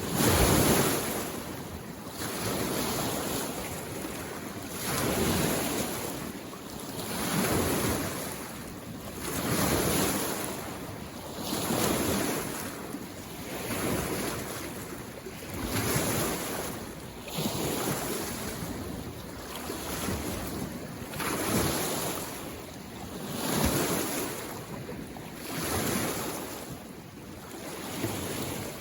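Small lake waves washing in against the shore, a steady hiss that swells and ebbs about every two seconds, the first surge the loudest.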